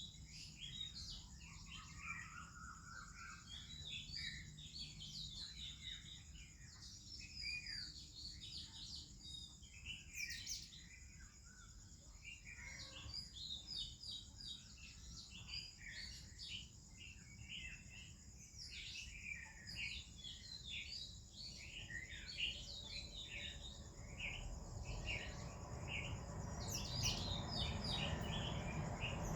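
Morning chorus of many small birds chirping and whistling over one another, Oriental magpie-robin among them, with a steady high-pitched drone underneath. A low rushing noise grows louder near the end.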